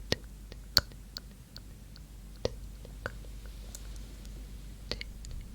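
Close-miked ASMR mouth sounds: scattered, irregular wet clicks of the tongue and lips, about seven of them, over soft breathy whispering.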